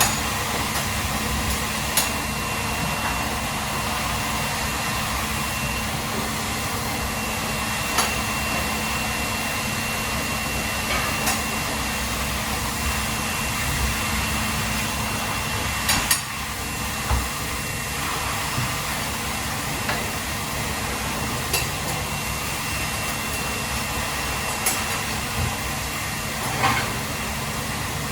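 Steady machine-like hum and hiss, with a handful of short sharp knocks and clicks of kitchen utensils at irregular intervals, a double knock about sixteen seconds in.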